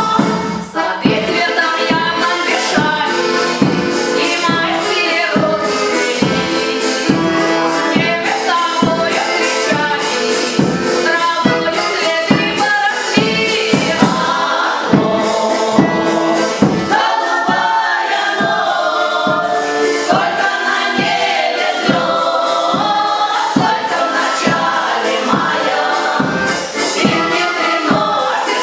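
Several voices singing together over a band accompaniment with a steady beat, about two beats a second.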